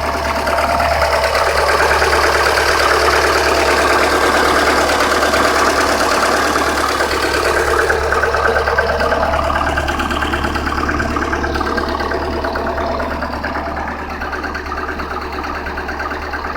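Lada VAZ 1.5-litre eight-valve petrol engine idling steadily, a little louder through the middle and easing off over the last few seconds.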